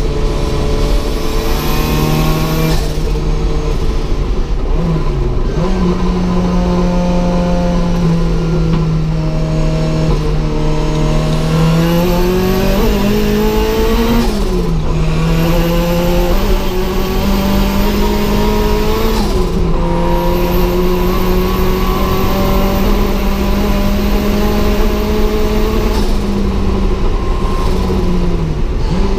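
Turbocharged Ford Zetec four-cylinder of a Mk2 Escort hillclimb car, heard from inside the cabin, running hard under load. Its pitch climbs through the revs and falls sharply at gear changes several times. A high whine comes and goes over it.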